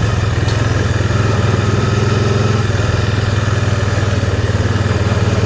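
Can-Am Spyder three-wheeled motorcycle's engine running at a steady, even pitch while riding along.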